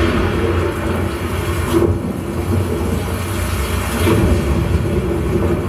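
Movie sound effect of a violent storm played through a Sony HT-S700RF soundbar system: a deep, steady rumble with a rushing noise over it, swelling briefly about two and four seconds in.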